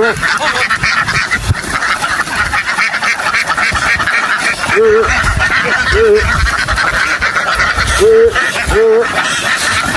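A large flock of ducks quacking and chattering continuously. A few louder, drawn-out calls stand out about halfway through and again near the end.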